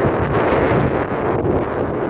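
Strong easterly wind blowing across the microphone: a loud, steady rushing with an uneven low rumble from the gusts.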